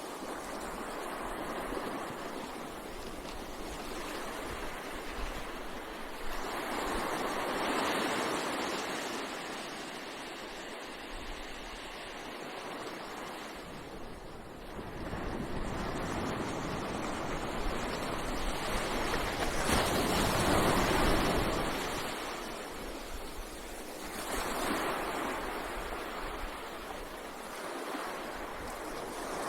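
Gentle ocean waves breaking and washing up on a beach: a steady surf hiss that swells each time a wave comes in, every several seconds.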